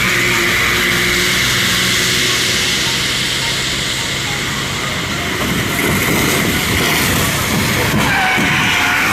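Car driving on a rain-wet highway: a steady rush of tyre and road noise with engine hum, growing a rougher low rumble about halfway through.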